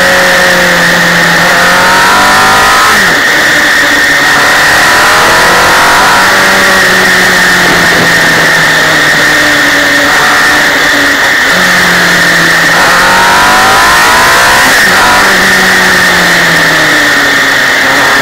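MV Agusta motorcycle sidecar outfit's engine pulling through a run of mountain bends. It climbs in pitch under acceleration and drops back several times, over constant wind and road rush.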